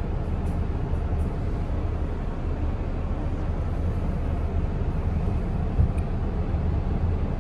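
Steady low rumble of a city bus on the move, heard from inside the cabin: engine and road noise, with a short knock about six seconds in.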